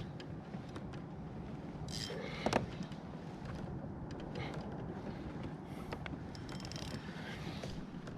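Fishing reel being cranked against a hooked fish, a steady mechanical noise with a few sharp knocks, the loudest about two and a half seconds in.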